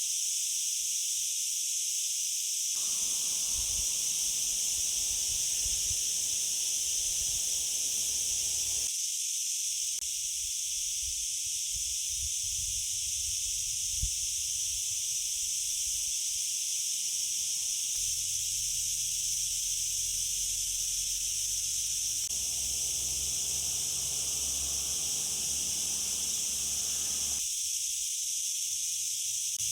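Steady high-pitched hiss throughout, with faint low rumbling underneath that comes and goes.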